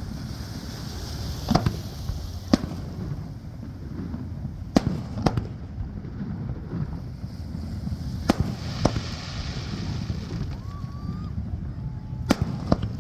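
Fireworks shells bursting in sharp bangs, mostly two close together, a new pair every three to four seconds. A crackling hiss follows some bursts, and a steady low rumble sits underneath.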